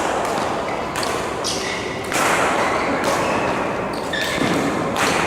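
Badminton rally in a sports hall: sharp racket strikes on the shuttlecock and short squeaks of shoes on the court floor, ringing in the hall.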